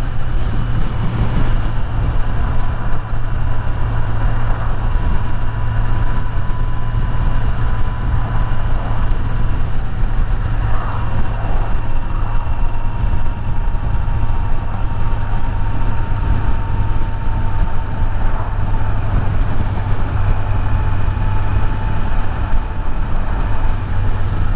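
Kawasaki Z900's inline-four engine running steadily at a constant cruising speed, a continuous low drone with a haze of road and wind noise over it. A faint high whine drifts slightly lower in pitch over the stretch.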